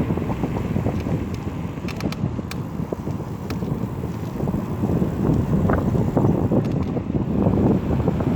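Wind buffeting the microphone of a moving bike, a gusty low rumble that swells and eases, with a few faint ticks about two seconds in.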